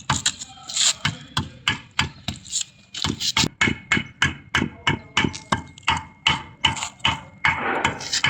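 Repeated hammer blows in a quick, even rhythm of about three to four strikes a second.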